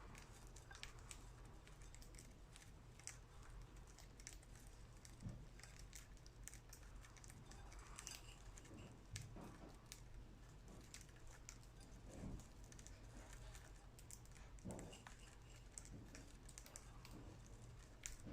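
Budgies pecking at and husking millet seeds: faint, irregular little clicks and crackles, with a few soft knocks against the dish.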